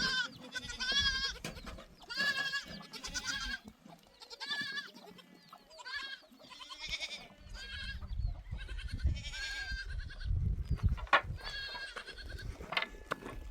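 Goats bleating again and again, many short quavering calls, some overlapping. A low rumble joins them for a few seconds past the middle.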